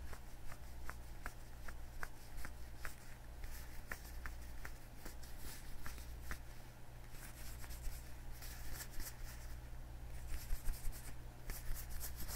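Leather gloves worn on the hands being rubbed and flexed: soft rustling with many short leather creaks, the rustling thicker and louder in the second half.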